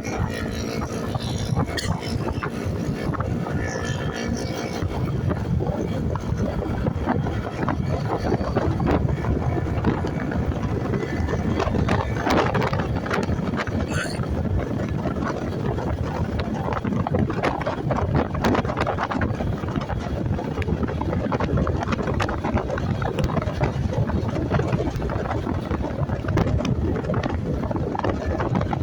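Motorcycle riding sounds: steady wind rush over the microphone with the engine and road noise underneath.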